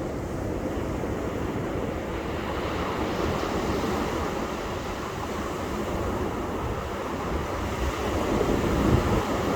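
Ocean waves breaking and washing on a beach, a steady rush of surf that swells slightly twice, with some wind rumble on the microphone.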